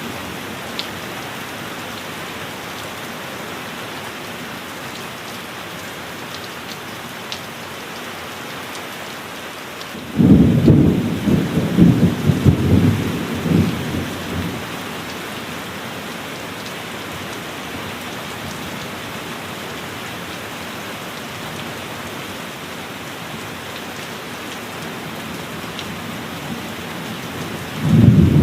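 Steady heavy rain with occasional louder drops. About a third of the way in, a sudden, loud, crackling peal of thunder rumbles for about four seconds, and another thunderclap breaks in at the very end.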